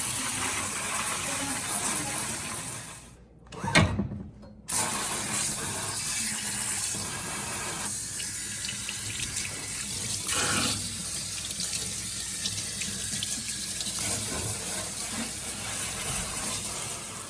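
Water spray hissing steadily as it rinses the dirty cutlery spray mechanism of a GE dishwasher. About three seconds in, the spray stops for a second or so, there is a short knock, and then the spray runs on.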